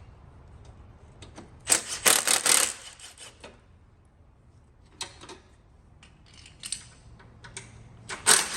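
Short bursts of a pneumatic impact wrench hammering on bolts: a loud burst about two seconds in and another just before the end. Scattered light metallic clinks fall between them.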